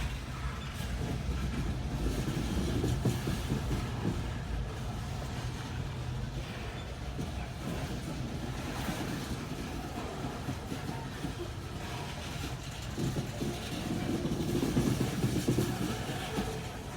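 Freight cars of a slow-moving freight train rolling past, with a steady low rumble and uneven stretches of wheel clatter on the rails.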